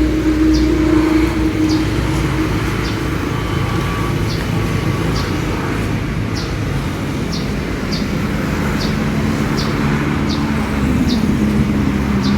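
A motor running steadily, its hum shifting in pitch a few times, with faint high ticks scattered through.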